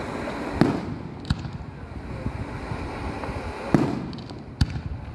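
Aerial firework shells bursting: four sharp bangs, two in the first second and a half and two more near the end, over a continuous low rumble from the display.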